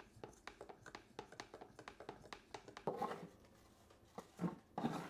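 Hand work on a wooden kitchen cabinet: a run of small ticks and light scrapes, then two louder rubbing scrapes, one about three seconds in and one near the end.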